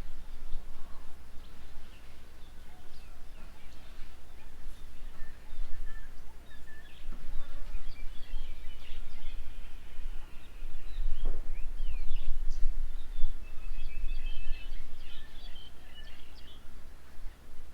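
Birds chirping and calling in short, scattered notes, busier in the second half, over a steady low rumble.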